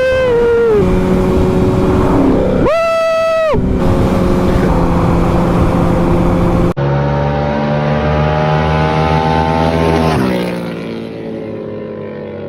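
Motorcycle engine running at speed with wind noise. Two short, loud horn blasts sound, one at the start and one about three seconds in, the second higher-pitched. Later the engine tone steadies and then drops in pitch and level about ten seconds in as the bike slows.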